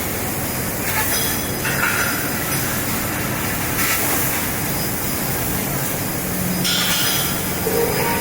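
Fiber laser cutting machine running: a steady mechanical rumble and hiss, with short bursts of hissing about 1, 2, 4 and 7 seconds in.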